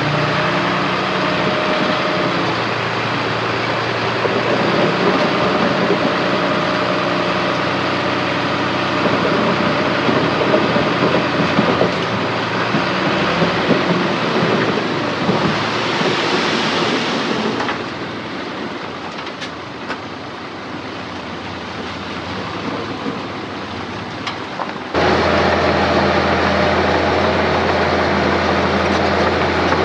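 Heavy diesel earthmoving machinery running, a steady engine drone with a rough, noisy texture. A hiss swells about halfway through, the sound drops for several seconds, then it switches abruptly to a louder, steady low engine hum.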